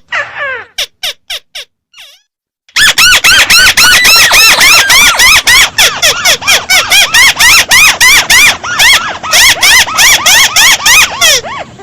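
Bird call of the bird known locally as chim mắt xéo, played at boosted volume: a few falling whistled notes, a short pause, then a long fast run of arched chirps, about five a second.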